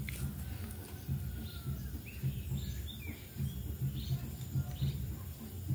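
A scatter of short bird chirps and calls over a steady low rumbling noise on the microphone.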